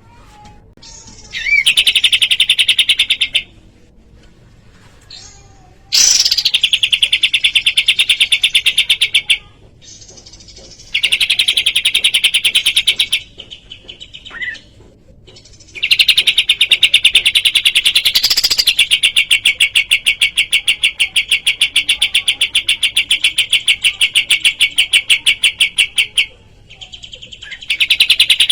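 Kapas tembak songbird singing its rapid rattling trill in repeated bursts, each a fast even string of sharp notes lasting a few seconds, with short pauses between; the longest burst, about ten seconds, starts about halfway through.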